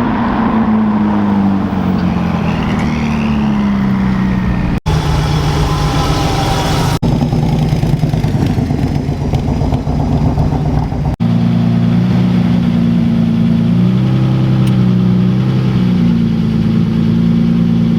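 Exotic car engines in a string of short clips: one engine's revs fall away over the first few seconds, and later an engine is revved, its pitch stepping up and down.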